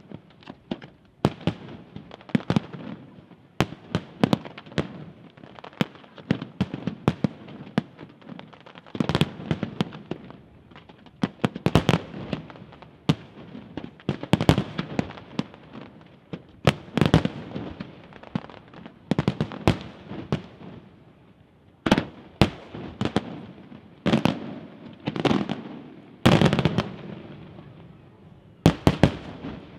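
Aerial fireworks display by La Rosa International Fireworks: shells bursting in a steady stream of sharp bangs, often several in quick succession, with crackling between them. The bangs come in denser clusters near the end.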